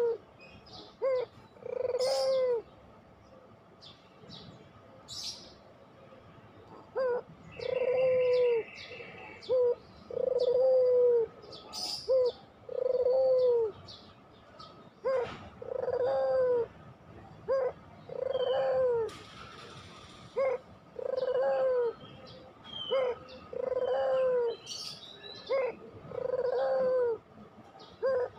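Puter pelung, a long-voiced domestic barbary dove, cooing over and over: each call is a short note followed by a longer drawn-out coo. The calls pause for a few seconds early on, then run at about one call every second and a half. Faint high chirps from other small birds sound in the background.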